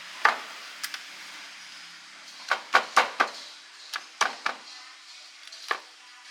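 A series of about ten sharp knocks and clacks of hard objects striking, in irregular clusters, with a faint steady hum beneath.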